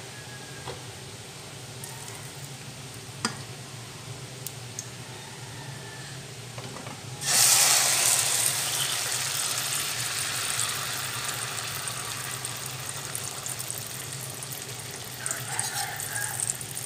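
Hot cooking oil in a frying pan bursting into a loud sizzle as a beaten-egg and mashed grilled eggplant mixture is poured in, starting suddenly about seven seconds in and slowly fading. A few clinks of a fork scraping the plate near the end.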